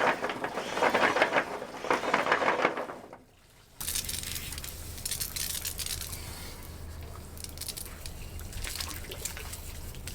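Water from a low-pressure wash-down hose spraying and splashing, cutting out briefly about three seconds in. It then comes back as a quieter splashing trickle over a low steady hum.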